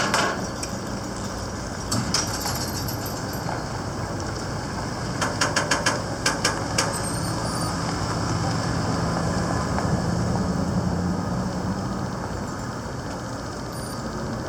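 A motor running with a steady low hum, with a quick run of clicks about five to seven seconds in.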